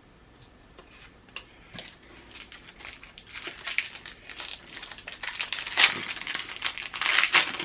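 Wax-paper trading card pack wrapper crinkling and tearing as it is opened, with many quick crackles that start after about two seconds and grow louder toward the end.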